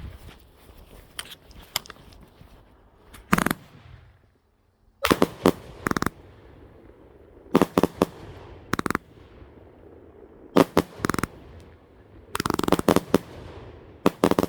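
Consumer firework cake firing: sharp bangs in quick clusters of two to four, one cluster every second or two.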